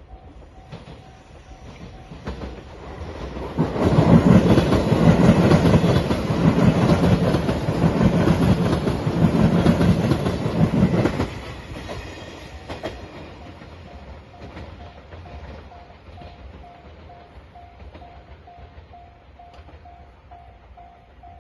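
A Japanese level-crossing alarm bell rings at a steady beat while a Shiokaze limited express train passes, loud for about seven seconds with a rhythmic clatter of wheels over rail joints. The train then fades quickly and the crossing bell rings on.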